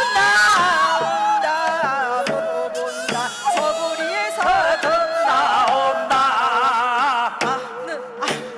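Korean shaman-ritual (gut) accompaniment music: a wavering, sliding melody line over scattered drum strokes.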